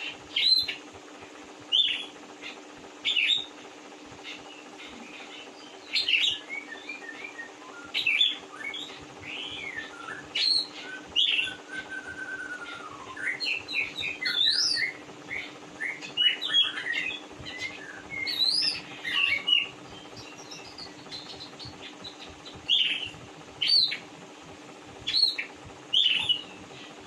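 Oriental magpie-robin (kacer) singing: loud, sharp whistled notes that sweep up and down, repeated every second or two, with a busier run of varied warbling phrases in the middle. A steady low hum lies underneath.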